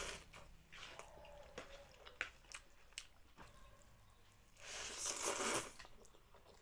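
Close-up eating sounds: chewing with small crunches and wet squishes from a mouthful of thukpa noodle soup with crisp sono papad and aloo chop, with one louder, longer rush of noise about five seconds in.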